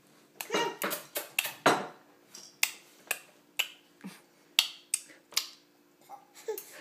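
Repeated sharp knocks and clatter of kitchenware struck on a hard surface, roughly two a second, starting about half a second in.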